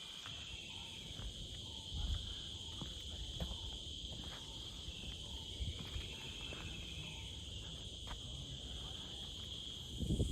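Insects droning steadily in one continuous high-pitched note, over a low rumble with a few small clicks.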